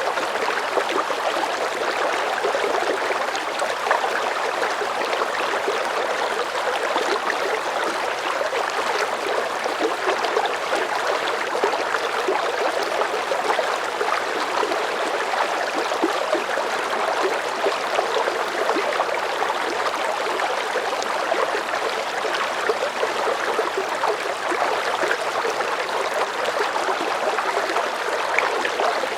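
River water flowing at a medium current, a steady rushing with fine gurgling and splashing detail.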